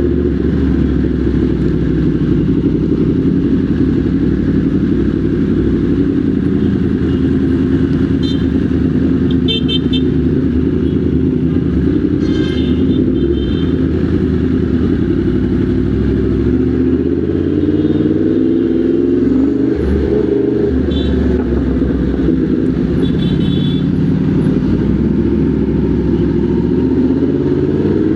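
Motorcycle engine running at low speed in stop-and-go traffic, with a rev that rises and falls about two-thirds of the way through. A few brief high-pitched sounds come over it at several points.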